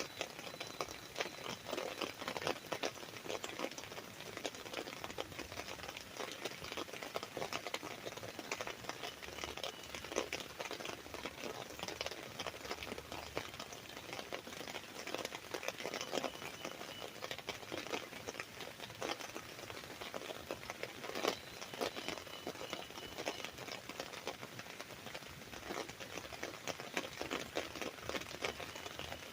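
Rain pattering on an umbrella canopy: a dense, irregular stream of drop impacts, with one sharper, heavier drop about two-thirds of the way through.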